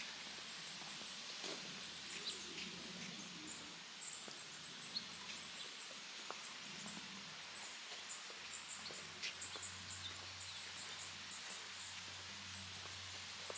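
Small birds chirping faintly over a steady outdoor hiss, the short high chirps coming thickest about two-thirds of the way through, with a few faint clicks.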